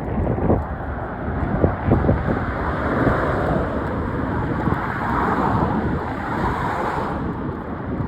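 Freight train rolling past with a steady rumble of wheels on rail and a few clanks in the first two seconds, with wind buffeting the microphone.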